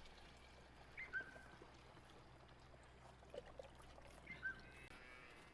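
Near silence: faint low hum of room tone, with two brief high chirps that fall slightly in pitch, about three seconds apart.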